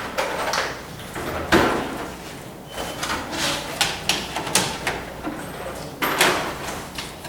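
Irregular knocks, scrapes and clatter of furniture and objects being handled and moved about during a clean-out, with a sharper bang about a second and a half in and another about six seconds in.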